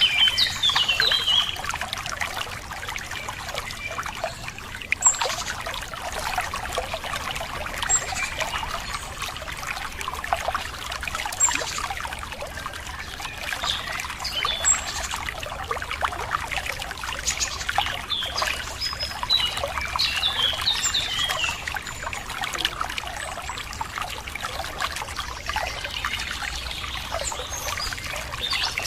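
Running water trickling and splashing steadily, with birds chirping over it: quick runs of chirps near the start, about two-thirds of the way through and at the end, and a few single high notes in between.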